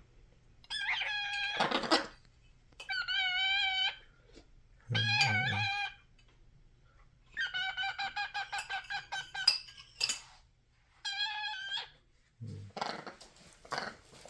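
A pet bird calling over and over: drawn-out, wavering calls with pauses between them, and one rapid pulsing run of notes about halfway through.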